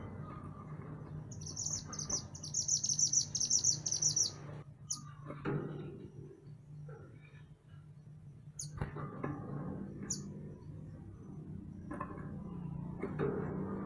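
A mantenan gunung songbird singing: a fast, high trill lasting about three seconds, then three short, sharp, single high notes spaced a few seconds apart, over a steady low hum.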